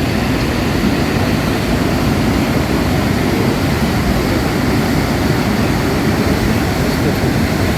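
The flood-swollen Marsyangdi River rushing past in a steady, loud, unbroken torrent, the river in spate and still rising.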